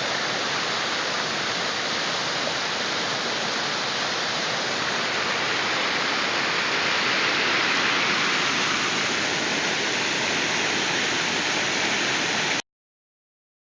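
Storm runoff rushing through a backyard after a short, heavy rain: a steady torrent of water that cuts off suddenly near the end.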